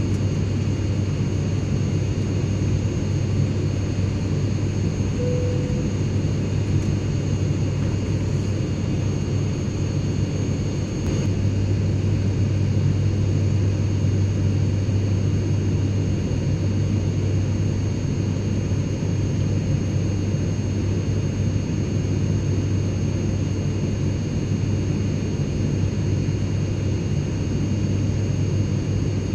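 Airplane cabin noise: a steady low drone and rushing air, with faint steady high-pitched whines over it.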